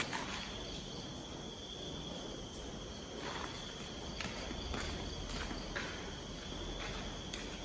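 Crickets trilling steadily in one continuous high tone. Soft footsteps come in from about three seconds in as someone walks away.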